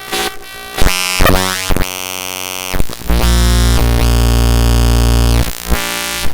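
Raw bytes of a Windows executable (DellTPad.exe) played directly as audio: harsh synthetic buzzing tones that switch abruptly. Short buzzy bursts come first, then a loud, steady buzz holds from about three seconds in to five and a half seconds before dropping to a quieter tone.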